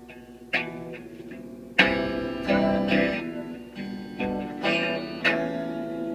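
Instrumental music: guitar picking notes and chords, with a louder chord struck about two seconds in.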